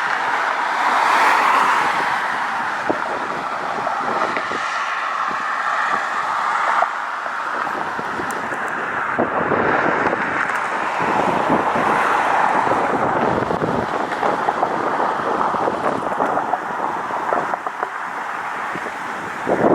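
Road traffic: cars passing by, a steady rush of tyre and engine noise that swells near the start and again about halfway through.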